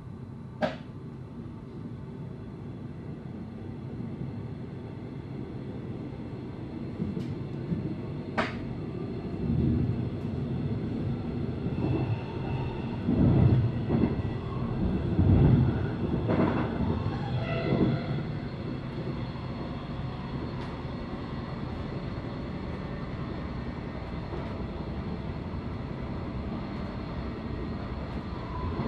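Train running noise heard inside the carriage as the train pulls away and gathers speed. A sharp click comes just after the start and another about eight seconds in. Louder rumbling and clattering from the wheels and track follows midway, then the running settles to a steady sound.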